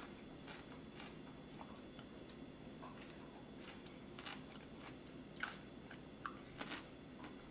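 Faint chewing of a mouthful of shrimp ceviche, with a dozen or so short, scattered clicks as a metal spoon scoops in the bowl; the clearest clicks come past the middle and near the end.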